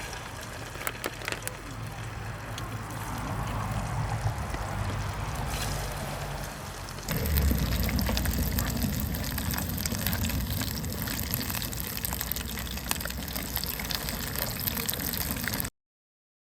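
Steady rushing of water with scattered small clicks. It gets louder and deeper about seven seconds in, then cuts off abruptly near the end.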